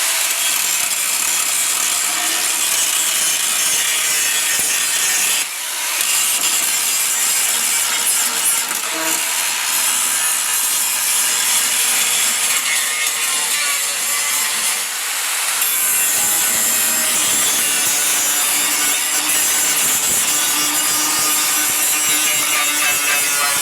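Angle grinder with an abrasive disc grinding down welded patch seams and slag on the steel truck bed, a loud steady grinding hiss that eases briefly twice.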